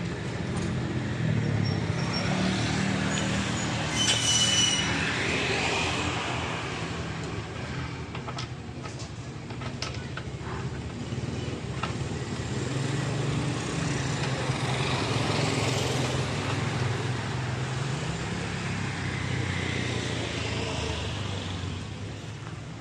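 Passing road traffic, engine sounds swelling and fading several times, with a few sharp metallic clicks in the middle.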